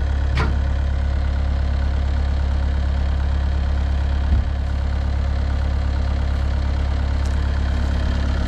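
Diesel engine idling steadily with a deep, even drone, and a single short knock about four seconds in.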